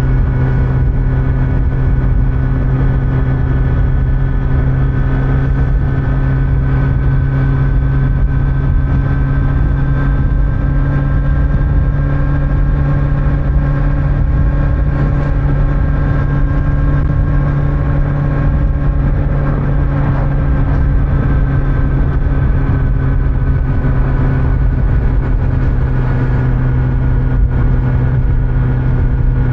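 Kawasaki Z900's inline-four engine with stock exhaust running at a steady cruise, its pitch holding nearly even with only slight rises and falls, over road and wind noise.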